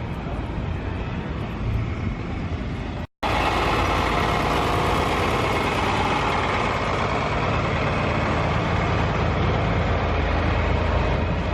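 Steady outdoor background noise, then after a sudden cut about three seconds in, a large engine running steadily close by with an even, unchanging rumble.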